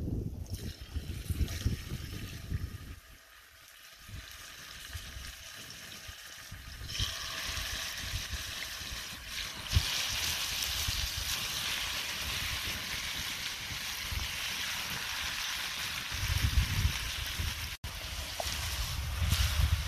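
Chicken pieces sizzling in hot oil in a skillet over a wood fire. The sizzle starts about a third of the way in and grows louder around the middle, over a low rumble of wind on the microphone.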